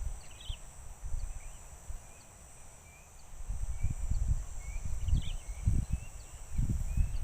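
Birds chirping in short, scattered notes over a steady high-pitched drone, with an irregular low rumble that is the loudest sound, dropping away for a couple of seconds near the start and returning about four seconds in.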